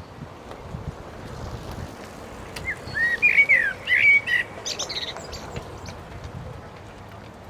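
A small songbird singing one short, quick phrase of bright chirping notes about halfway through, over a faint steady outdoor background.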